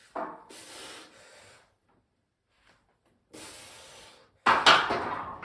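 A lifter's breathing and straining through a paused heavy bench-press rep: a short grunt and breath at the start, the breath held during a silent pause, then a hiss of strained exhaling and a loud sudden rush of breath or noise near the end that fades over about a second.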